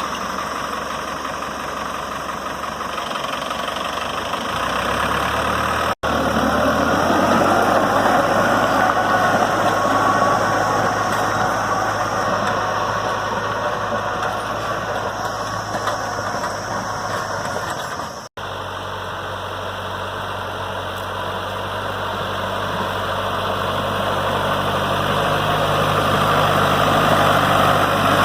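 New Holland tractor's diesel engine running steadily while working a 9-foot rotavator. The sound breaks off for an instant twice and grows louder near the end.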